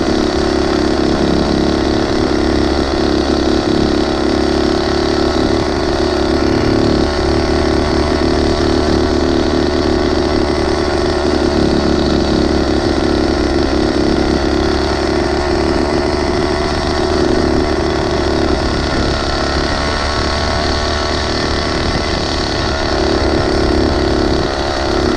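Small engine of a motorized 20-inch mini bike running steadily, with no big revs.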